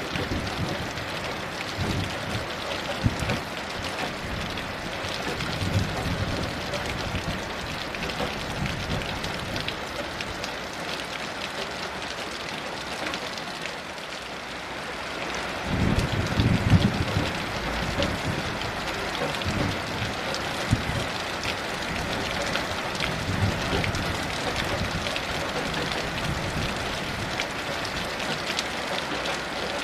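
Steady heavy rain falling, with several low rumbles of distant thunder rolling underneath, the strongest a little past halfway.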